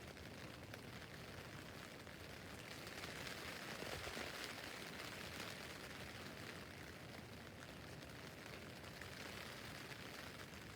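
Rain falling on a tent's fabric roof: a steady hiss of drops that grows a little heavier a few seconds in, then eases back.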